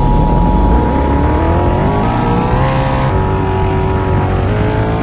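A vehicle engine accelerating, its pitch climbing, dropping back at a gear shift about three seconds in, then climbing again. Over it sounds the two-tone Emergency Alert System attention signal, a steady high double tone that cuts off about four seconds in, ahead of a tornado warning.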